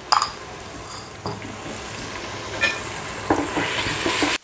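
Onions, tomatoes and green chillies sizzling in hot oil in a pressure cooker as ginger-garlic paste is stirred in, with a spoon clicking and scraping against the pot several times. The sizzle grows louder near the end, then cuts off suddenly.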